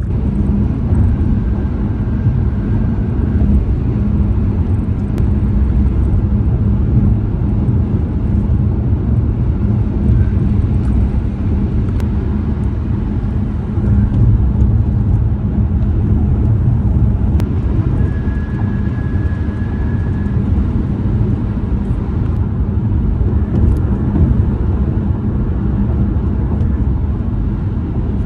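Steady tire and road noise heard from inside a moving car: a deep rumble with a constant droning hum from the tires on the pavement, and a few faint clicks.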